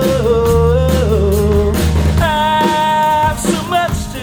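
Live rock band playing: drums, bass and electric guitar, with long held sung notes over the top.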